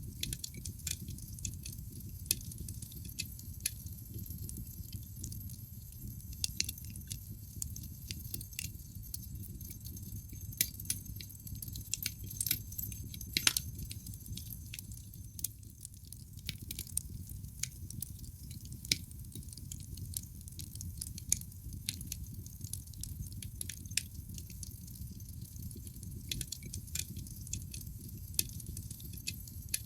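Wood fire in a fireplace crackling, with irregular sharp snaps and pops over a steady low rumble of the flames; one louder snap about halfway through.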